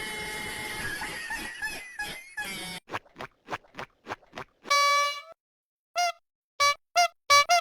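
A horn honking: one honk of about half a second, then four short toots at the same pitch near the end, after a stretch of noisy clatter and a run of quick clicks.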